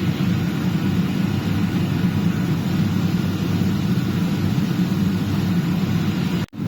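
Industrial dehumidifier running: its compressor and fan make a steady low hum with a rush of air, working to pull moisture from the room. The sound cuts out for a split second near the end.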